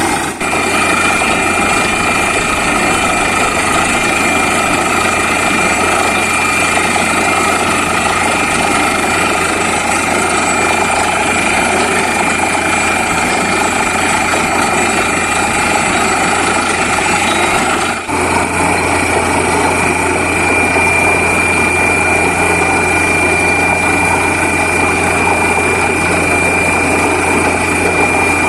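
Borewell drilling rig running steadily: a loud, constant machine noise with a high whine over a low hum, breaking off for an instant about 18 seconds in.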